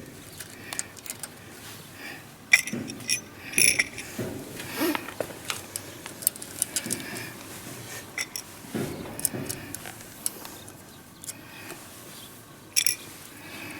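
Irregular small metal clicks and clinks of hand tools and fasteners while an electric motor is being wired at its terminal block.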